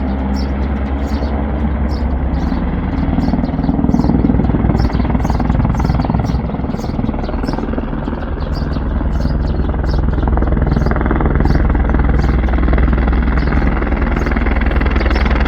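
Aircraft engines and propellers running loudly and steadily, heard from inside the cabin during landing. The engine note shifts about halfway through.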